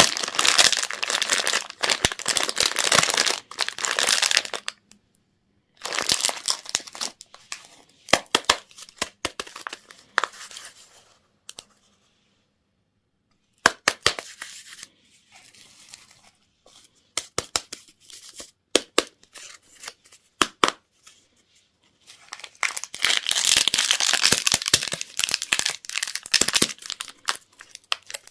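Crinkling and tearing of plastic candy wrappers being unwrapped by hand, in bursts, with longer spells of dense crackling at the start and near the end, and a brief pause midway.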